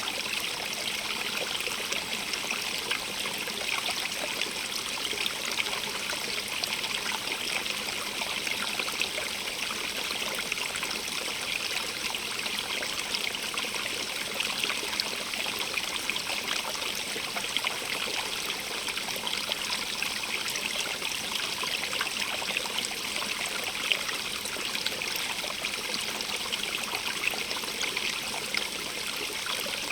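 Stream of water running and splashing steadily over rocks, an even bright rushing with small splashes and no change.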